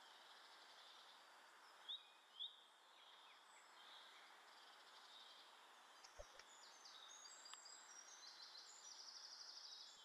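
Faint garden ambience with small birds calling: two short rising chirps about two seconds in, and a rapid high trill near the end. A soft low flutter-thump about six seconds in comes from a wood pigeon's wings as it flaps up off a branch.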